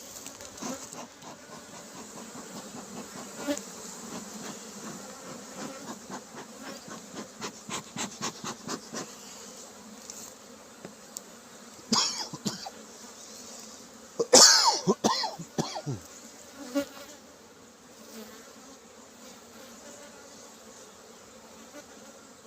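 A honeybee colony buzzing steadily around an opened brood box, with a run of small clicks and knocks early on. Two loud sudden sounds come about twelve and fourteen seconds in; the second is the loudest.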